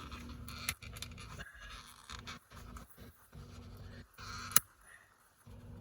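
A plastic piece being pried and pulled off a shifter boot by hand: scraping and scratching, with a sharp click about four and a half seconds in.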